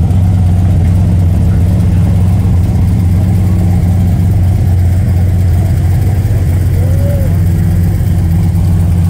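A car engine idling steadily and loud, its low hum unchanging.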